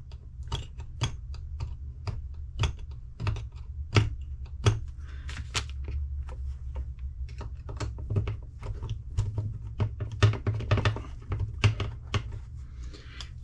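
Irregular sharp clicks and taps of small hand tools against an RC car motor's steel shaft, marking the shaft where it is to be cut, over a steady low hum.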